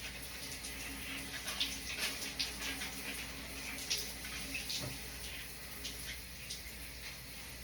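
Running water from a tap or shower hissing and splashing into a bathtub as a dog is washed, with irregular sharper splashes throughout.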